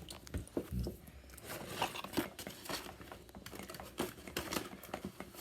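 Irregular crinkling, rustling and small clicks of things being handled at close range.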